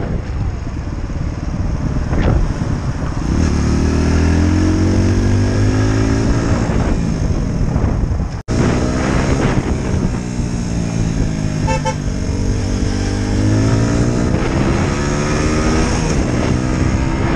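Motorcycle engine heard from the rider's helmet camera, its pitch rising and falling as the bike accelerates and eases off through the gears, over steady wind and road noise. The sound drops out for an instant about halfway, and a brief horn toot sounds about two-thirds of the way through.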